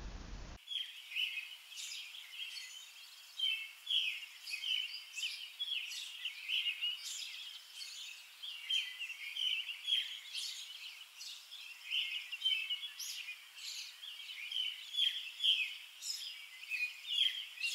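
Birds chirping in a steady chorus of many short, high chirps, starting about half a second in.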